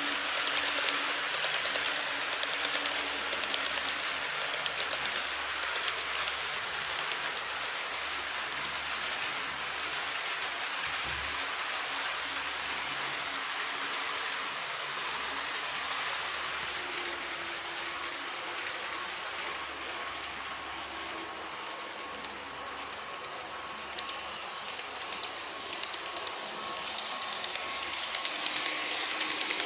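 Model train running along its track: a fast, dense patter of wheel clicks over the rail joints, louder at the start and again near the end as the train passes close, with a faint steady whine in between.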